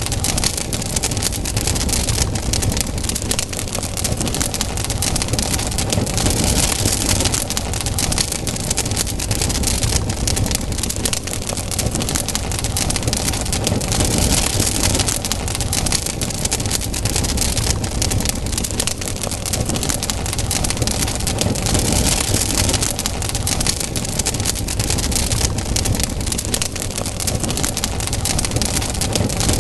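Wood campfire burning, a dense run of small crackles and pops over a hissing rush that swells and fades every few seconds.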